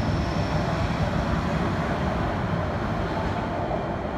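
MTR K-Train electric multiple unit pulling out into a tunnel: a steady rumble of wheels on rail and running gear. It eases slightly toward the end as the last car draws away.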